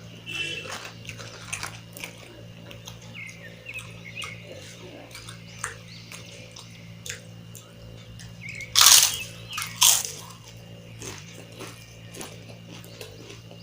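Close-miked chewing and lip-smacking while eating mutton curry and rice, a run of short wet clicks, with two much louder noisy bursts about nine and ten seconds in. A steady low hum runs underneath.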